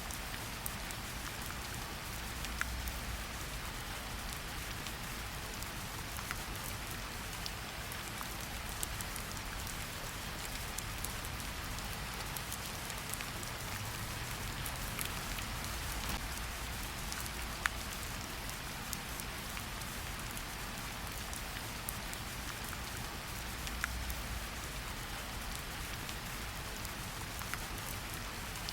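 Steady rain falling, a constant hiss with scattered sharp drips and drop impacts standing out now and then.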